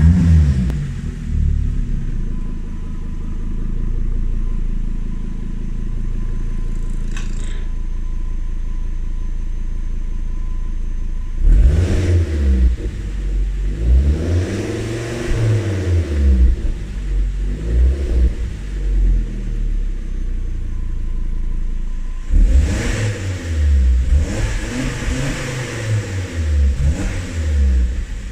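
Volvo S60 2.0T's turbocharged five-cylinder engine heard through an exhaust with an electric cutout valve. It idles steadily for about eleven seconds, is revved up and down several times, settles back to idle for a couple of seconds, then is revved again.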